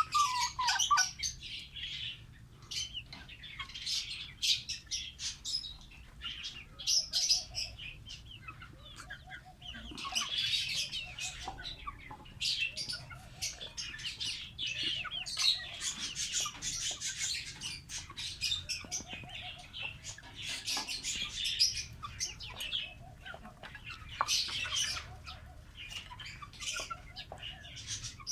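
Lovebirds chattering: a dense run of rapid, high-pitched chirps that hardly pauses, with a lower short call repeating every second or two.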